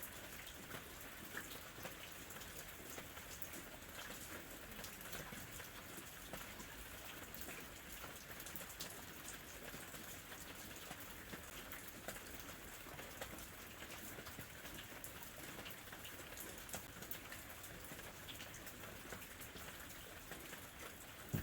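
Gentle summer rain falling steadily, a soft even hiss with many individual drops heard as small scattered ticks.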